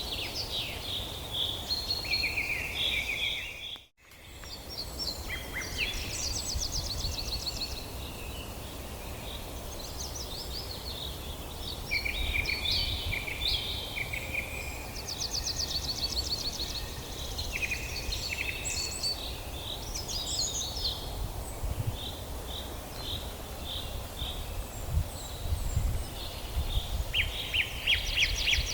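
Several songbirds singing and calling over one another, with chirps, short whistles and fast trills, over a steady low rumble. The sound drops out completely for a moment about four seconds in.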